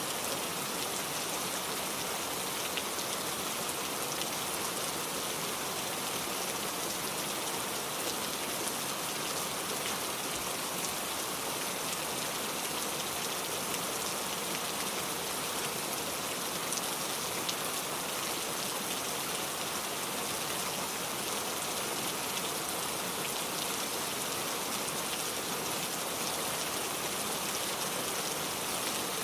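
Steady rainfall, an even hiss of rain with fine, dense drop ticks on surfaces.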